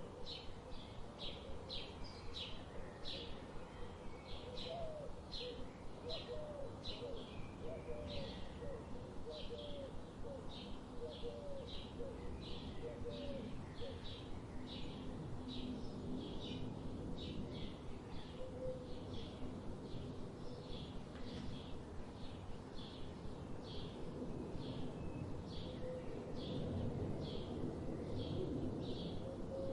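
A bird calling over and over, a short high chirp repeated evenly about twice a second, with a second, lower-pitched bird call in the first half.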